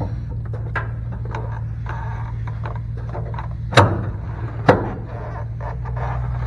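Hand tools clinking and knocking on the stuck gooseneck hitch bolts under the truck, with two sharp knocks about a second apart near the middle, over a steady low hum.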